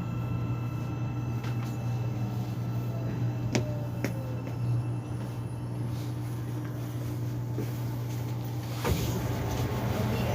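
Interior of a moving Korean subway car: a steady low hum of the train, with a faint falling whine and two sharp clicks a few seconds in, as the train slows toward its next station.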